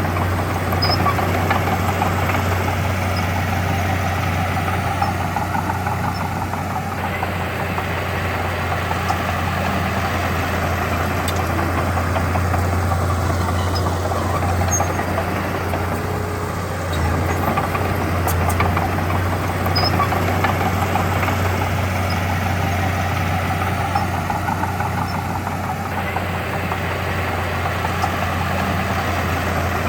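Diesel engine of heavy earthmoving machinery running steadily: a constant low drone whose sound swells and eases every several seconds as the load changes.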